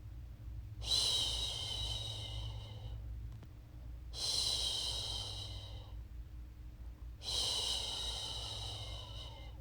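A woman's voice making long 'shhh' shushing sounds to soothe a baby to sleep. There are three shushes, each starting suddenly and trailing off over two to three seconds, about one every three seconds, over a low steady hum.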